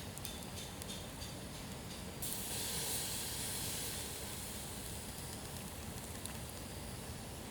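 A few faint ticks, then a hiss that starts suddenly about two seconds in and fades away over the next couple of seconds.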